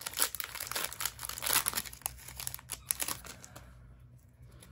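Foil wrapper of a Pokémon card booster pack crinkling and tearing as it is torn open by hand: rapid crackling for about three and a half seconds, then fading to faint handling.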